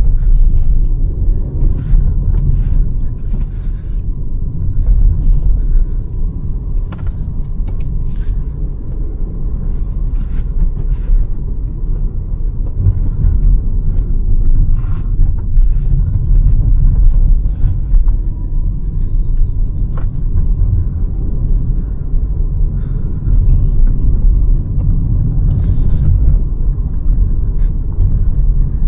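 Hyundai Verna 1.5 turbo petrol car on the move: a steady low rumble of engine and road, with scattered short clicks and ticks.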